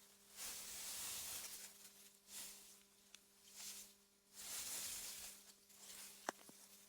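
Wind gusting through meadow grass: a soft hiss that swells and dies away several times, over a faint steady low hum. A single sharp click near the end.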